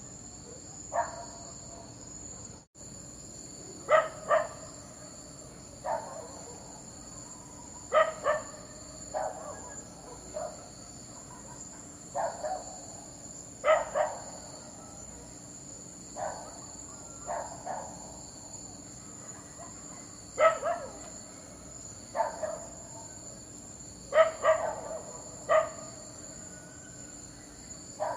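A dog barking in short, sharp barks, singly or in quick pairs every couple of seconds, over a steady, high-pitched insect chirring like crickets.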